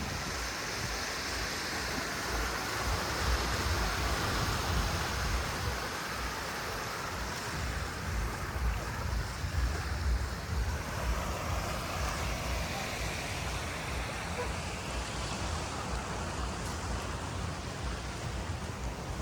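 Sea surf washing in under rain, a steady hiss, with wind buffeting the microphone in a gusty low rumble.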